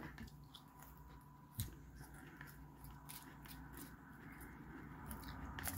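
Faint chewing of a mouthful of salad, with scattered small clicks and a soft knock about a second and a half in.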